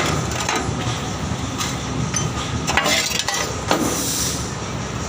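Metal clinking and knocking several times as tools and a clamp are handled against metal, over a steady low hum.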